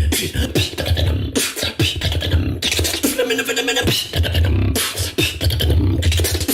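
Human beatboxing: a deep, held bass sound under fast clicks and snare-like hits, with a short stretch of pitched vocal sound about three seconds in.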